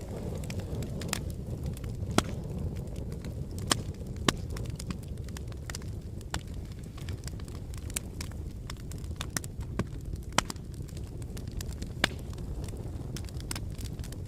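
Wood fire burning in a fireplace: a steady low rumble of flames with irregular crackling and a few sharper pops as the logs burn.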